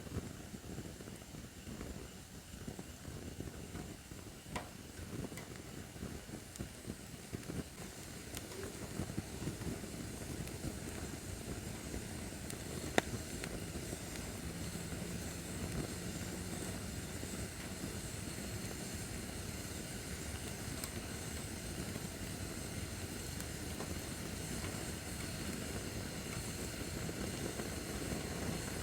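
Acacia firewood burning in a fire pit: a steady rush of flames with scattered crackles and one sharp, loud pop about halfway through. The fire grows a little louder over the second half.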